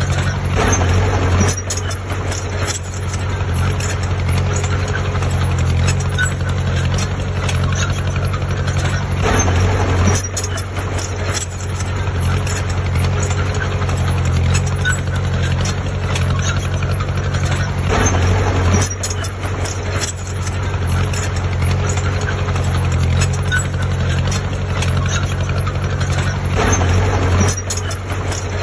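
Heavy construction-machine diesel engine running steadily, with louder swells of noise about every eight to nine seconds.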